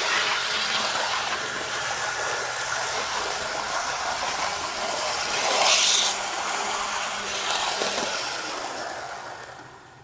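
A second-generation Athearn HO-scale flywheel diesel locomotive running along the track with a hissing, rattling wheel-and-gear noise. It fades over the last second or so as it coasts to a stop.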